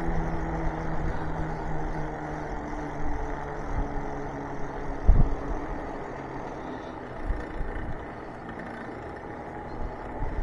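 Wind and road noise while riding an e-bike, with a low hum that fades away over the first few seconds. There is a single thump about five seconds in.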